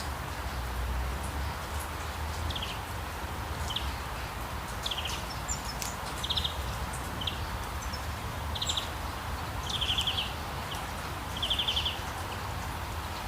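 Steady rain hiss with a low rumble underneath, while birds sing over it: short high chirps and several brief rapid trills every second or so.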